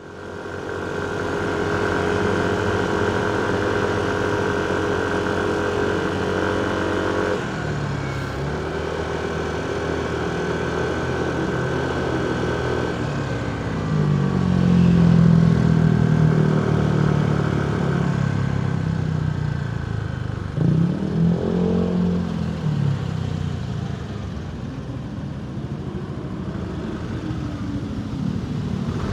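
Motorcycle engine idling steadily. About seven seconds in the sound changes as the bike moves off, and its pitch then rises and falls several times as it speeds up and slows.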